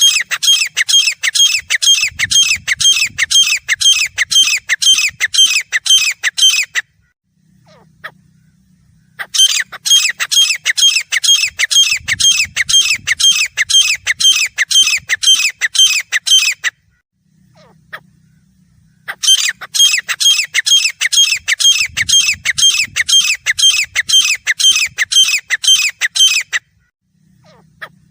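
Grey francolin calling: three long bouts of loud, shrill notes repeated quickly, about three a second, each bout lasting about seven seconds with short pauses between.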